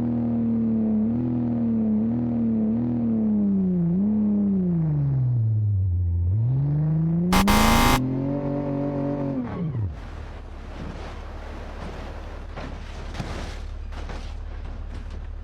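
A vehicle engine revving: its pitch wavers, sinks low and climbs again, with a loud short burst just past the middle. About two-thirds of the way through it cuts off, leaving a steady low rumble with crackling.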